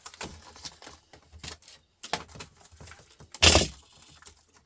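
Small clicks and knocks of a Fujitsu Siemens laptop being pried apart by hand, with one loud crack about three and a half seconds in as a part is snapped off.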